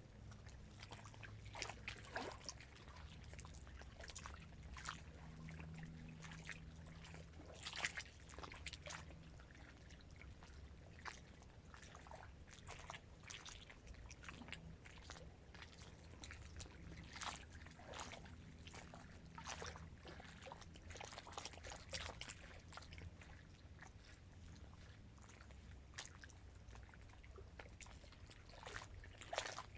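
Small waves lapping and slapping irregularly against the reservoir shore of a dam, with a low steady hum underneath.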